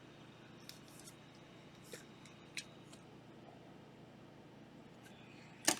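Trading card packs and cards being handled: faint scattered rustles and soft clicks over quiet room tone, with one sharper click just before the end.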